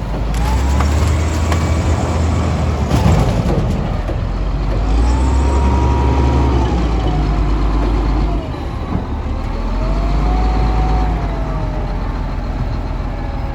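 Heavy diesel engine running steadily with a whine that rises and falls slowly, about three times.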